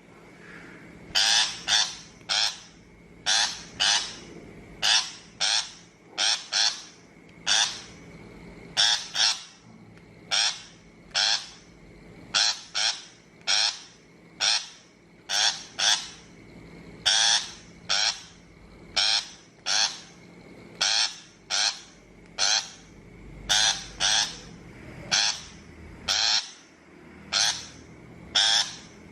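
A shrike giving harsh, rasping calls over and over, in quick pairs and triples at about one to two calls a second.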